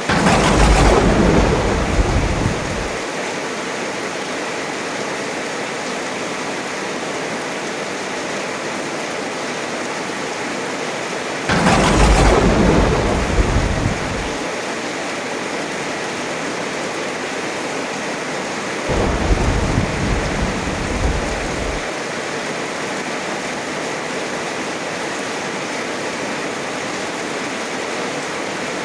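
Heavy rain pouring steadily, with three peals of thunder: at the start and again about twelve seconds in, a sharp close crack that falls into a rumble lasting about three seconds, and around twenty seconds in a duller, lower rumble without the crack.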